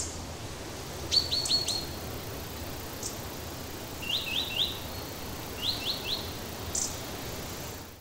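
A bird calling in short runs of three or four quick, high chirps, each sliding downward; the runs come about a second in, about four seconds in and near six seconds, over a steady background hiss.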